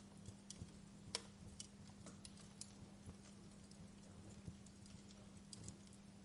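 Faint crackling of burning firewood in a fireplace: irregular small pops and snaps, one sharper pop about a second in, over a steady low hum.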